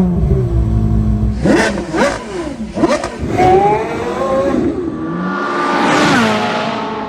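Porsche Carrera GT's 5.7-litre naturally aspirated V10 revving: several quick throttle blips with the pitch shooting up and dropping, then a longer rising pull that swells loudest about six seconds in and fades away at the end.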